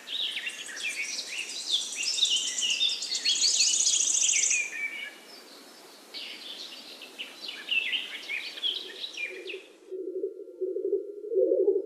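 Several songbirds singing over one another, quick chirps, warbles and trills, with a fast high trill about four seconds in and a short lull near the middle, over a steady background hiss. Near the end the birdsong cuts off abruptly and a low, wavering musical hum takes over.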